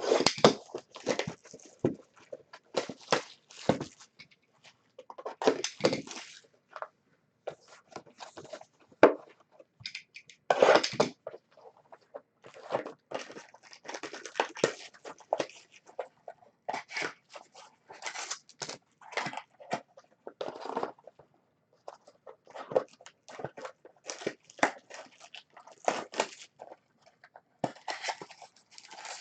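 Packs of baseball trading cards and their plastic wrapping being torn open and the cards handled: irregular crinkling, tearing and rustling in short bursts.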